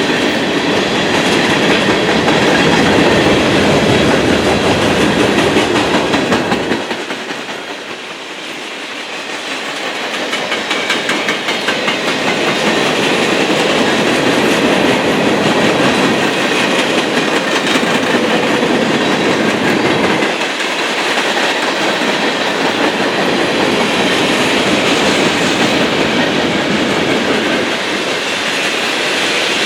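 A train's cars rolling steadily past close by, wheels clacking over the rail joints. The sound dips briefly twice, once about a quarter of the way in and again around two-thirds through.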